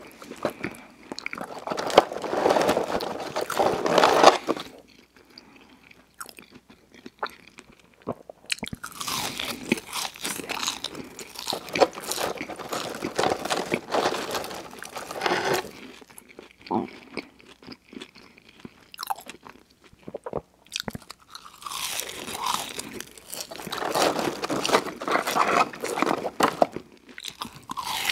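Close-miked chewing of a fish sandwich and french fries, wet mouth sounds and soft crunching, in three long bouts of chewing with short pauses between them.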